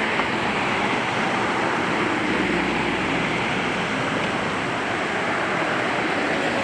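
Steady outdoor rushing noise, with a low rumble swelling briefly about two to three seconds in.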